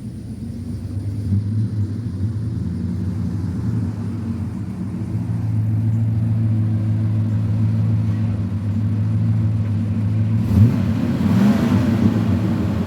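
Chevrolet 454 big-block V8 of a 1988 Chevy C30 pickup running steadily as the truck drives; about ten seconds in the engine note rises as it picks up revs.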